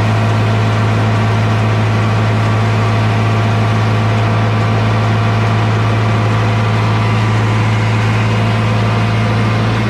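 Corn grinder running at a steady speed: a loud, unchanging low drone with a strong hum.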